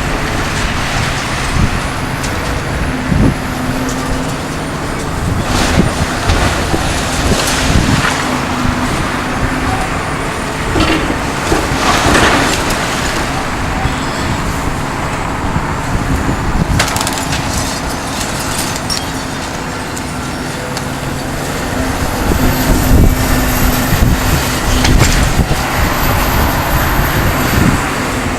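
Kobelco SK350LC-10 demolition excavator running steadily under load while demolishing a building, with several sudden crashes and cracks of debris breaking and falling.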